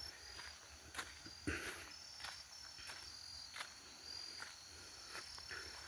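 Crickets chirping at night in faint high trills that come and go in stretches, with scattered soft clicks.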